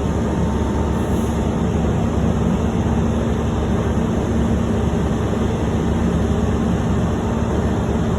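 Heavy diesel truck engine running with a steady drone and hum.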